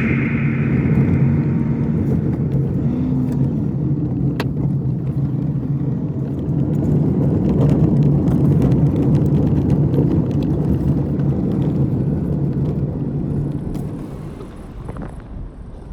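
A car driving, its engine and road noise running steadily, then dropping off in level near the end.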